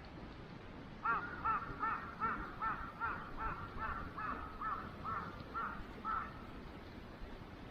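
A bird calling: a quick run of about a dozen short, arched, pitched notes, roughly two or three a second, that stops about six seconds in.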